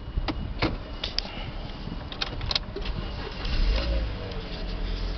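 Sharp clicks and handling noises in a Toyota Auris over a low steady hum, with a short, louder low rumble about three and a half seconds in.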